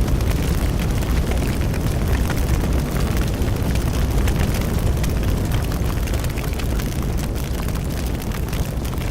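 Bonfire burning: a steady low roar of flames with frequent small crackles and pops of burning wood.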